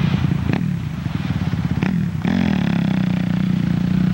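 Motocross motorcycle engine running steadily, its pitch dipping and rising again about two seconds in. Two short sharp knocks stand out, about half a second and about two seconds in.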